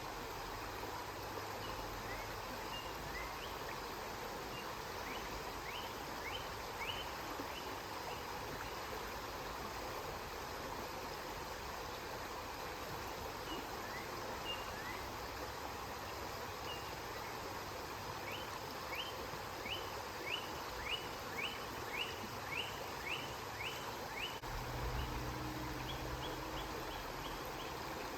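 River water flowing steadily, with a bird calling over it in quick runs of short rising chirps. A low rumble comes in near the end.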